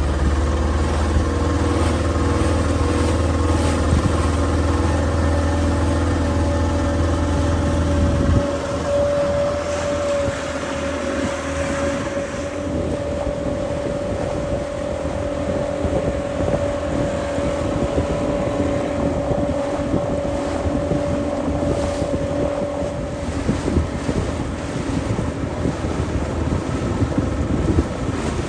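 Motorboat engine running steadily, with wind on the microphone. A deep low rumble drops away about eight seconds in, and the engine's steady hum carries on.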